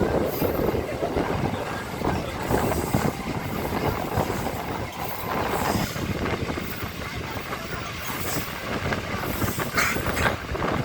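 An EMU electric local train running along the track, heard from on board: a steady rumble of wheels on rail with irregular clattering.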